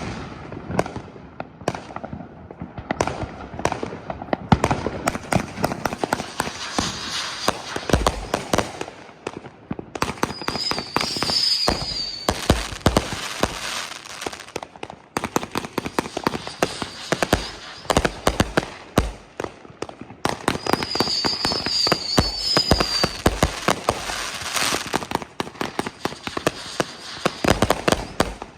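A consumer firework cake called 'Hydrogen Bomb' firing a long, continuous barrage of rapid pops and crackling bangs. Shrill whistles cut through at about 11 seconds in and again at about 21 seconds in.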